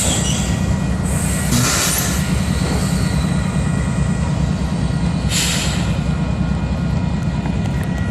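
Train backing slowly through a level crossing: a steady low rumble with faint high wheel squeal, and brief hissing bursts about a second and a half in and again around five seconds in.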